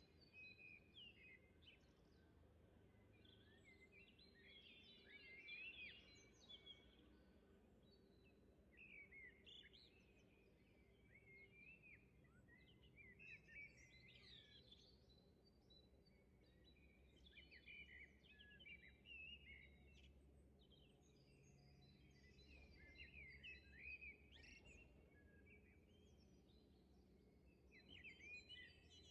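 Faint songbird chirping and twittering, in short runs every few seconds, over a low steady hum.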